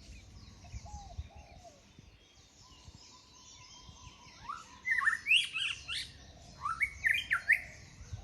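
White-rumped shama singing: two loud runs of rapid whistled notes sliding up and down, starting about halfway through. Faint bird chirps lie underneath.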